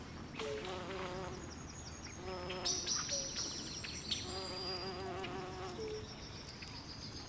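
Night swamp ambience: a repeated warbling animal call with several overtones comes about every two seconds. From about a third of the way in it runs over a steady high insect buzz and a faint low hiss.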